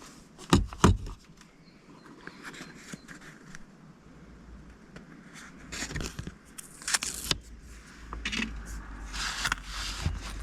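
Handling of small objects: two sharp knocks just after the start, then scattered rustles, scrapes and clicks, busier around the middle and again near the end.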